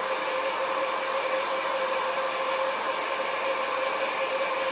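Handheld hot-air dryer running steadily, a constant whir with a steady hum over rushing air, blowing on wet paint to dry it.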